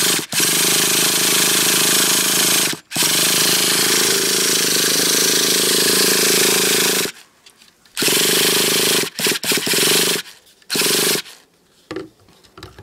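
Traxxas T-Maxx nitro engine being cranked over by its starter, in long steady runs with brief stops and then a few short bursts, ceasing about 11 seconds in. It doesn't catch: fuel isn't getting to the fuel line.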